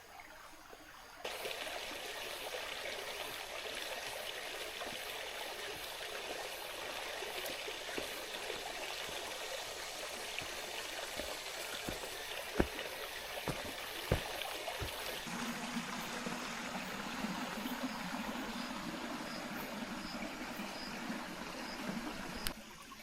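River water flowing, a steady rush that starts suddenly about a second in, with a few sharp knocks in the middle.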